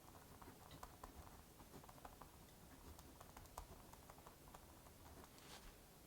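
Faint crackling fireplace: scattered, irregular pops and snaps over a soft steady hiss.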